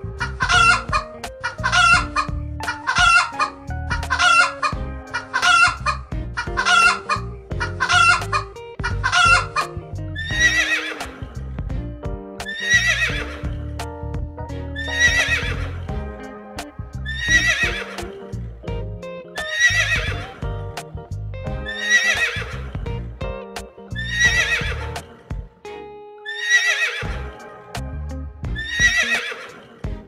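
Chickens clucking in quick, evenly repeated calls over background music. About ten seconds in, these give way to pony whinnies repeated about once a second, still over the music.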